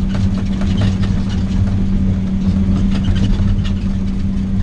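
Vehicle engine running at a steady speed with a constant low hum, heard from inside the cab on a rough, rocky gravel logging road, with small rattles and knocks from the ride.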